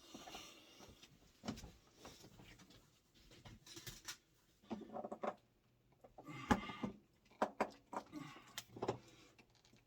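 Scattered metal clanks and knocks of hand tools at work on a tight electric water heater element, the loudest a sharp clank a little past halfway, with short strained grunts around five seconds in.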